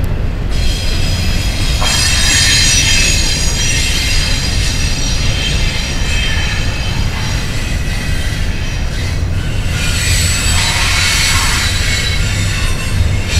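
Freight train's double-stack container cars rolling past with a steady low rumble, their wheels squealing high-pitched on the curve. The squeal is strongest in the first few seconds and again about ten to twelve seconds in.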